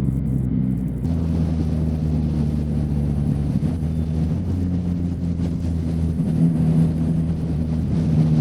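Motorcycle engine running while riding in traffic, a steady engine note whose pitch shifts slightly about a second in and again around halfway.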